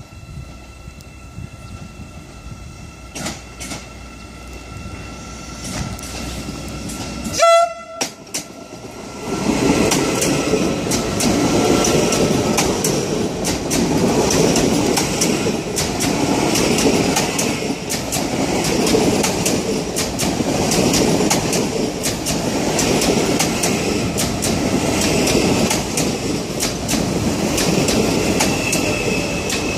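A Hyundai Rotem HRCS2 electric train gives one short horn toot about seven seconds in. From about nine seconds it runs close past, with a steady loud rumble and wheels clicking over the rail joints.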